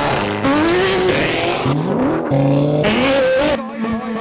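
Performance car engines revving and accelerating hard, the engine pitch climbing again and again, with abrupt changes from one engine sound to another every second or so.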